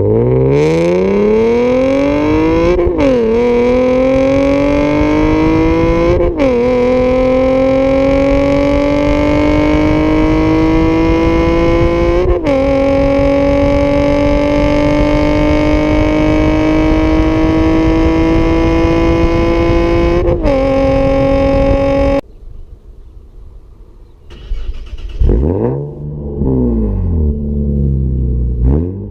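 Nissan 370Z's 3.7-litre V6 through an Armytrix valved exhaust, accelerating hard through the gears. The note climbs in pitch and drops at each of four upshifts. About two-thirds in, the throttle closes and the sound falls away sharply, followed by a few brief rising-and-falling revs near the end.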